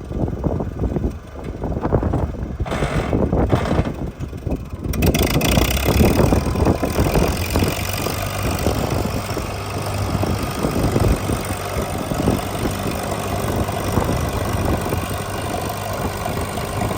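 Propane-fuelled Case 800 farm tractor engine running steadily. It is rougher and more uneven for the first few seconds, then settles into an even run.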